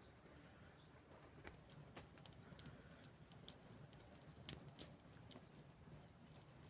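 Wood fire crackling faintly, with irregular sharp snaps and pops.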